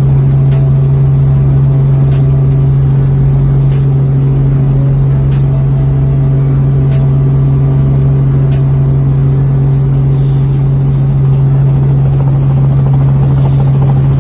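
Helicopter in flight: the engine and rotors make a loud, steady drone with a strong low hum, and faint ticks come about every second and a half.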